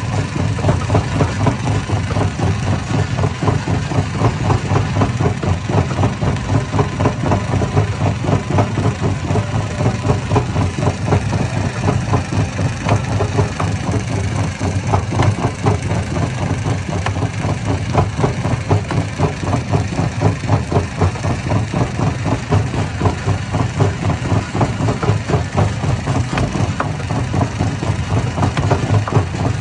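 Hammer stone crusher running: a loud, steady, heavy machine drone with rapid, closely spaced knocking.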